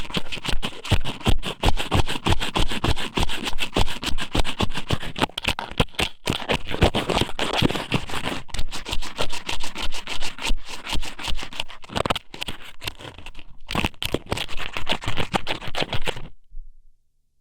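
Squid-noodle strips (ika somen) pushed and rubbed inside a microphone's ear, making a dense, rapid close-up scratching and crackling. It stops suddenly near the end.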